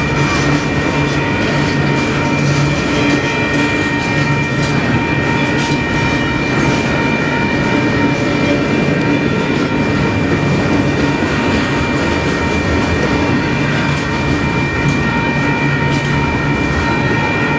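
Double-stack container well cars rolling steadily past at a grade crossing, a continuous rumble with the clickety-clack of wheels over the rail joints. A steady high tone runs over the clatter throughout.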